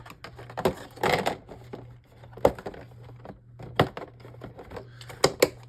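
Hard plastic clicks and knocks as the top layer of a Beyblade stadium is handled and fitted back on, about seven scattered taps over a faint low hum.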